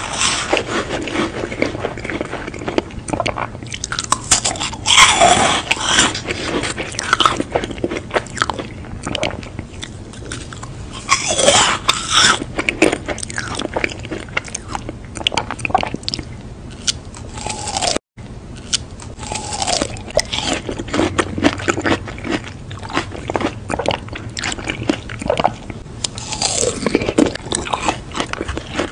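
Close-miked chewing and crunching of food, with many small mouth clicks and crackles and louder crunchy bites every few seconds. The sound cuts out completely for an instant just past halfway.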